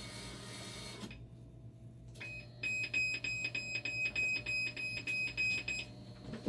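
Dialysis machine giving a rapid series of high, evenly spaced alarm beeps, about four or five a second, for nearly four seconds. Just before the beeps, a steady hiss cuts off suddenly about a second in.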